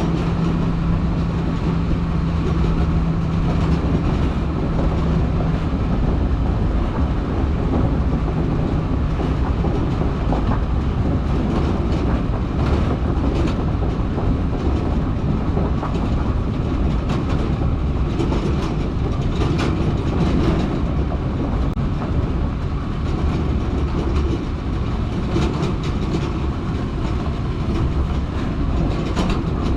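Stewart & Stevenson M1078 LMTV military truck driving under load, its diesel running steadily under rumbling road noise and constant rattling and clatter. A steady hum sits under it for the first several seconds.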